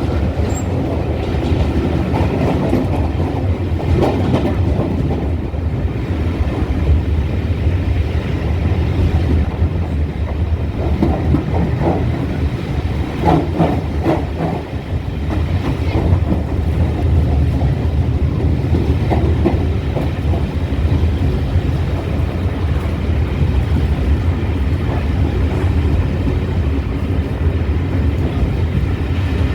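Steam-hauled train coaches rolling through a tunnel, heard from on board: a loud, steady rumble with wheels clicking over rail joints in clusters about halfway through.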